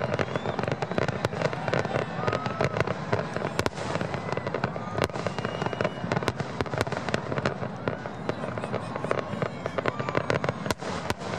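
Aerial fireworks display: a dense, continuous run of shell bursts, with many sharp bangs and crackles in quick succession.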